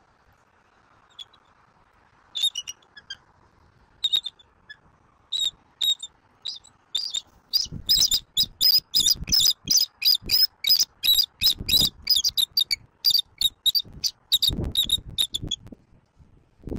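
A bird calling in short, sharp, high notes: a few spaced calls at first, then a fast run of many notes for about eight seconds. Low rumbling sits beneath the run in places.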